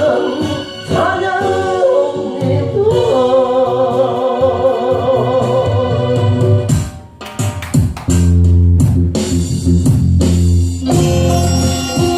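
Gospel song: a singer holds a closing phrase with vibrato over instrumental accompaniment. The voice ends about halfway through, and the accompaniment plays on alone.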